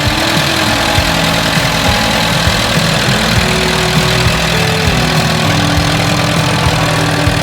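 Tractor engine idling steadily, a low even hum with a regular ticking beat.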